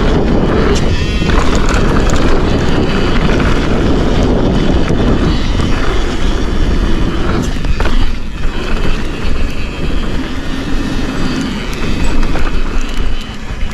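Mountain bike riding down a dirt trail: steady wind rush on the microphone with tyre noise and scattered knocks and rattles from the bike. About eight seconds in, the sound turns choppier and more uneven.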